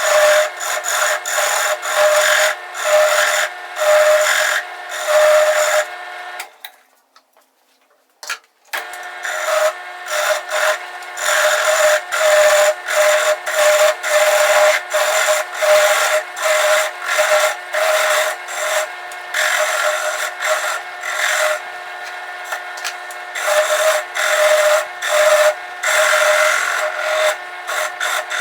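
A wood lathe runs with a steady whine while a turning tool scrapes and cuts wood in quick, repeated passes. About a quarter of the way in, the sound drops out for a couple of seconds, then resumes.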